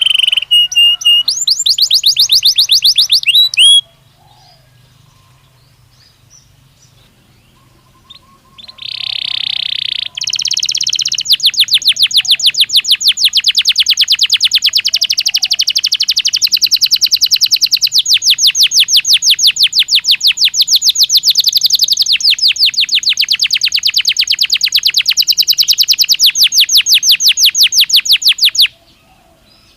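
Belgian canary singing: a burst of fast trilled notes, a pause of a few seconds, a short held note, then one long, very rapid trill lasting well over a quarter minute's half that cuts off abruptly near the end.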